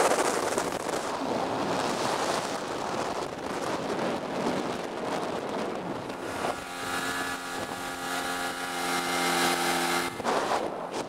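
Johnson 35 hp two-stroke outboard motor pushing a small cabin boat along, under a steady rush of wind on the microphone and water. About six and a half seconds in, the engine's steady drone comes through clearly for about three and a half seconds, then drops back under the wind.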